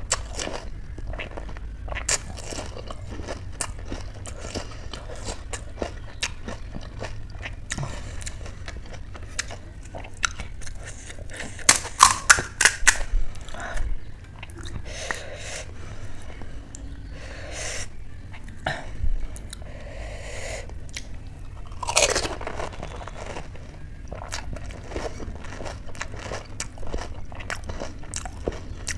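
Close-miked chewing and crunching of spicy pani puri, with many small crisp crackles of the fried puri shells. About twelve seconds in comes a quick run of loud cracks as a puri shell is pressed open by hand, and about twenty-two seconds in another loud burst.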